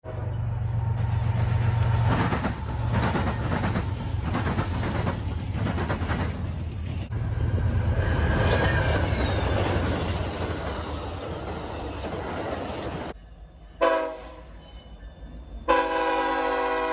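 Diesel locomotives and freight cars passing, with a steady engine rumble and wheels clicking over rail joints. Near the end a locomotive air horn gives a short blast, then sounds a long multi-tone chord.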